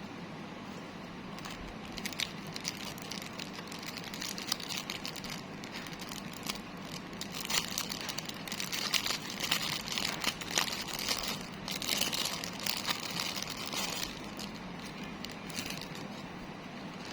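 Plastic packaging crinkling and rustling as it is handled, in irregular crackly bursts that are densest around the middle, over a steady background hiss.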